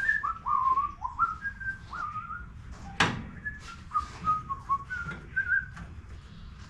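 A person whistling a tune, a run of short notes changing in pitch with many sliding upward, that stops near the end. A sharp click about three seconds in.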